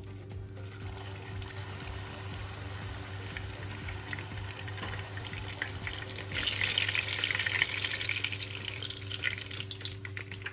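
Chicken köfte sizzling and crackling as they fry in oil in a pan, the sizzle growing louder about six seconds in, over a steady low hum.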